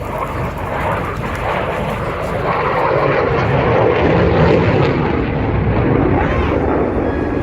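Aircraft engine noise from a fixed-wing plane, a broad steady roar that grows louder over the first few seconds and then holds.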